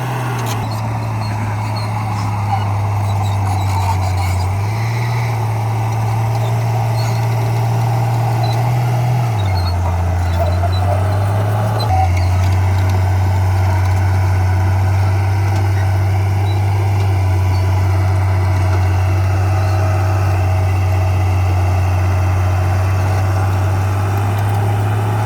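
Heavy diesel earthmoving machinery running steadily, its low engine drone stepping up and down in pitch a few times.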